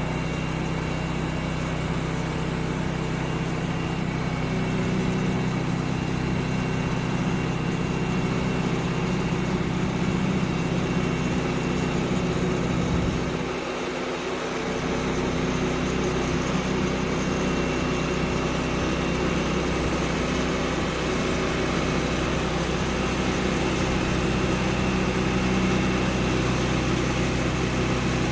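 Sawmill engine running steadily, with a brief dip in its low-end sound about halfway through.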